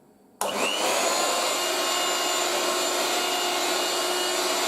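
1980s Moulinex 237/320 handheld vacuum cleaner switched on about half a second in: the motor spins up with a brief rising whine, then runs steadily.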